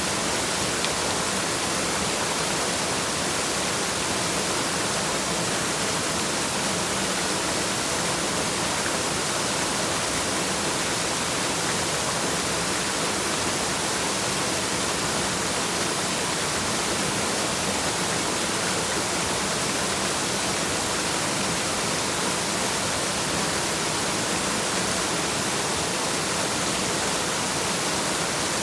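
Waterfall: a steady, unbroken rush of falling water, hissy and even throughout.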